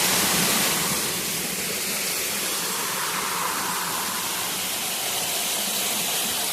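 Rushing water of a jungle stream: a steady noise, a little louder for the first second.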